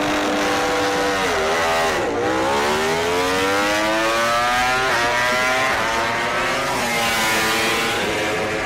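A MotoGP racing motorcycle's engine at high revs. The revs drop sharply about two seconds in, then climb steadily for a few seconds, and drop again about seven seconds in.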